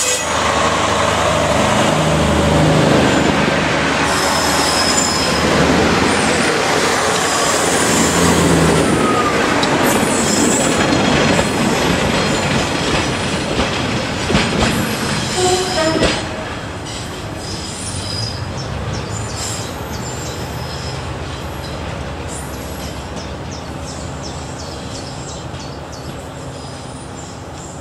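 Class 142 Pacer diesel multiple unit passing close by, its underfloor diesel engine running and its wheels clicking over the rail joints. About sixteen seconds in the sound drops sharply, then fades slowly as the train draws away.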